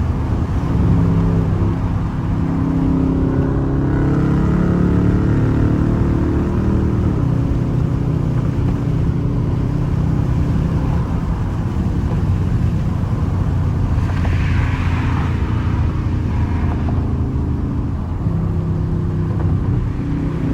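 Straight-piped, catless Dodge R/T HEMI V8 exhaust under way. The engine note climbs under acceleration over the first few seconds, then settles into a steady cruise.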